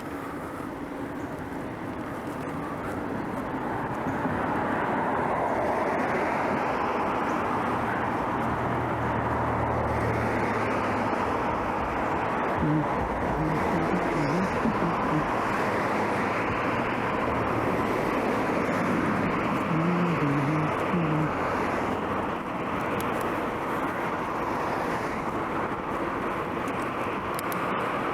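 Steady rushing wind and road noise from a bicycle ride along city streets, building over the first few seconds and then holding. A low hum comes in about a third of the way through, and short faint voice-like sounds come twice later on.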